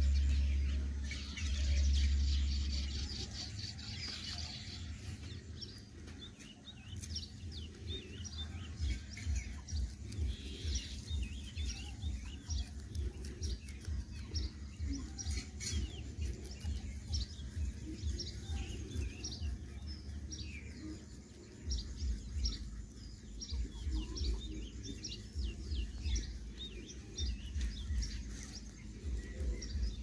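Small birds chirping, many short repeated calls throughout, over a low rumble that is steady at first and then comes as rapid low pulses.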